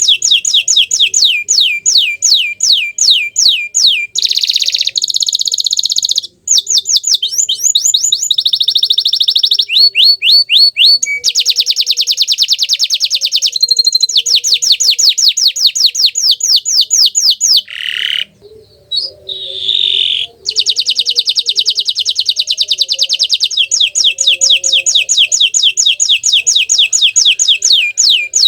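Canary of the green (hijau botol) colour variety singing a long song of fast trills: runs of quick falling notes, many a second, mixed with buzzy rolled phrases. There is a short break about six seconds in and another about eighteen seconds in.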